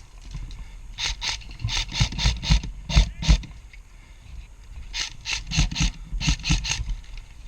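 Quick crunching footsteps through woodland undergrowth, in two runs of rapid steps separated by a pause of about a second and a half.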